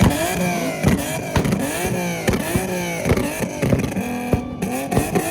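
Car engines revving over and over, the pitch climbing and dropping about twice a second, with sharp cracks mixed in.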